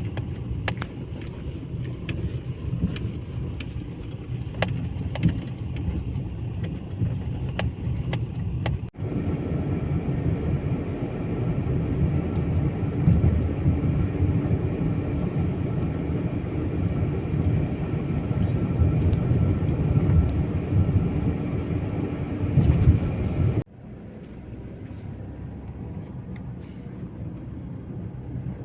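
Steady low rumble of a vehicle on the move, broken by two abrupt cuts, about nine seconds in and a few seconds before the end, after which it is quieter.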